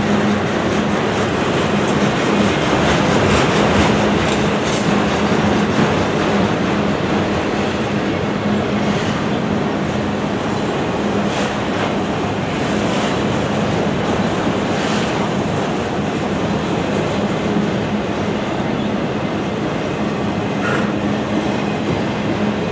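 Freight train's autorack cars rolling past close by: a steady rumble and rattle of steel wheels on the rail, with a low hum underneath and now and then a short click or clank.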